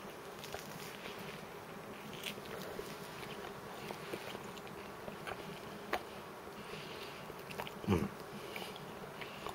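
A faint, steady buzzing hum with a few small clicks, and one soft low thump about two seconds before the end.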